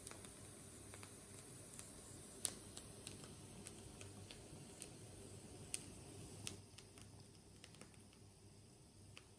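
Faint, irregular light clicks and taps over a low steady hum, a few sharper ones standing out.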